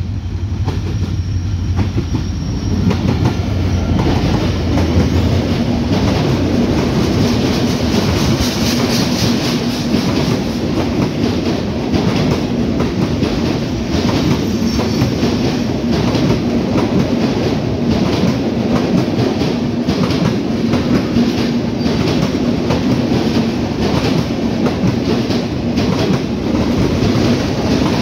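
Diesel-hauled passenger train passing close at speed. The locomotive's diesel engine drones for the first few seconds, then a long rake of coaches rushes past with rapid clickety-clack of wheels over rail joints.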